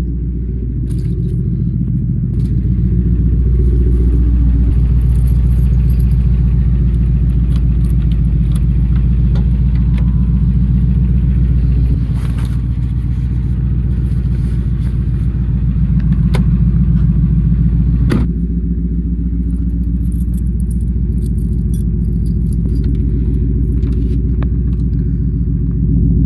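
Truck running on the road: a steady low engine and road rumble whose tone shifts a few times, with light clicks and rattles over it.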